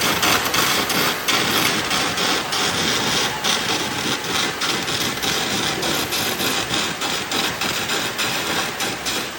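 Electric arc welding: the arc crackles and sizzles steadily, with small rapid pops in the hiss.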